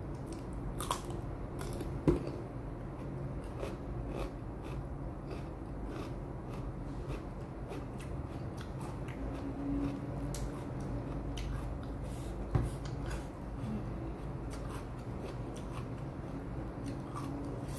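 Crunching bites and chewing of raw vegetables, a string of crisp crunches with a sharper one about two seconds in and another about two-thirds of the way through, over a steady low hum.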